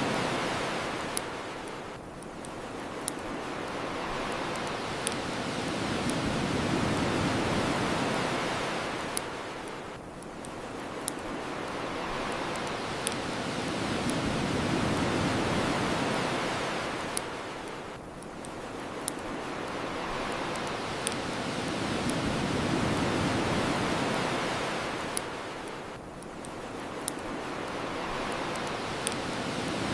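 Ocean waves washing onto a shore, each surge swelling and fading about every eight seconds, with sharp crackles and pops from a bonfire scattered through it.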